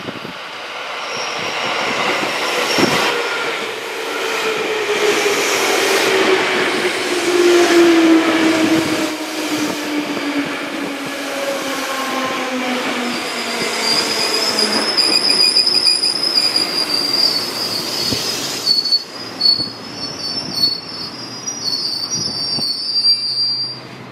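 JR 205 series electric train pulling into a station on a curve: its motor whine falls steadily in pitch as it slows, with knocks from the wheels over the rail joints. A high wheel squeal sets in a little past halfway and carries on until the last car has gone by, when the sound drops away suddenly.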